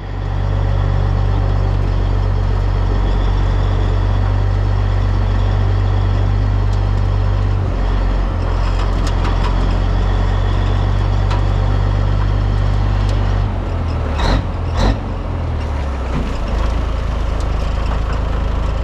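Semi truck's diesel engine running steadily while the truck is maneuvered. The engine note drops about two-thirds of the way through, and two short air hisses follow, typical of the air brakes.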